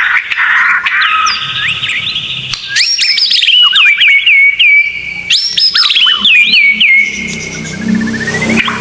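Songbird song on a tutoring recording for white-rumped shamas: a dense trill, then two fast series of sharp whistled notes that sweep down from high to lower pitch, a held note, and a quick rising run of notes near the end.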